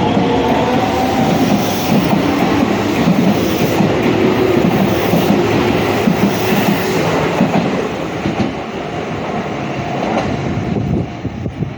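Keisei electric commuter train running along the platform, its wheels clattering over the rail joints in a loud, steady rumble that drops away near the end as the train clears the station.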